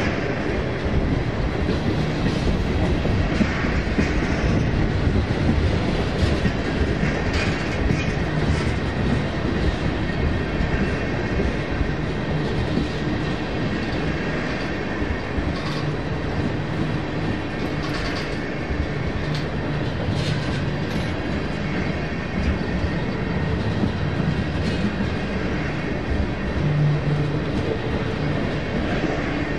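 Train rolling steadily past, its wheels clicking over the rail joints, with a low hum underneath.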